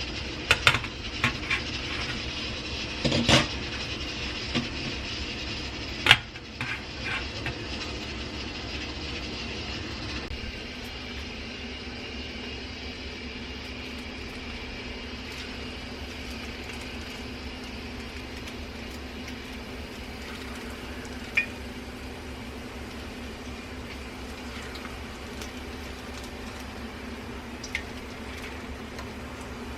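Chicken pieces deep-frying in oil in a wok: a steady sizzle, with several sharp clinks of a utensil against the pan in the first few seconds. A low steady hum joins about ten seconds in.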